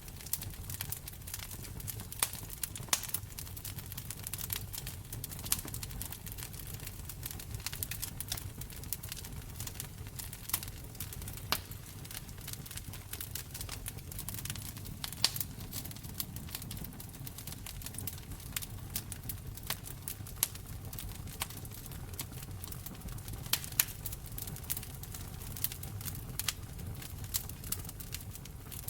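Wood fire crackling in a fireplace: a steady low rumble with irregular sharp pops and snaps, a few louder ones standing out.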